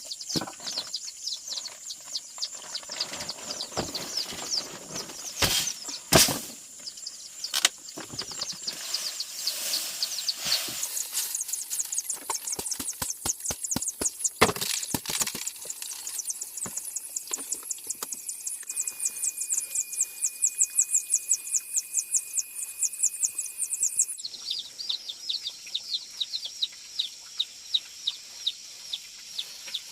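Fast, repeated high-pitched chirping calls, with scattered sharp knocks and clattering in the first half. A steady high tone sounds for a few seconds, and then the background changes abruptly near the end.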